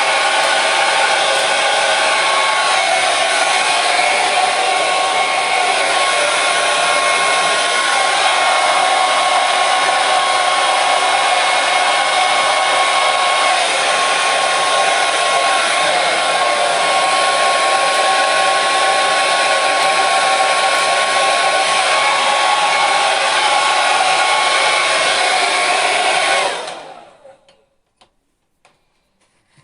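Hair dryer blowing steadily with a constant whine, then switched off near the end and dying away within about a second.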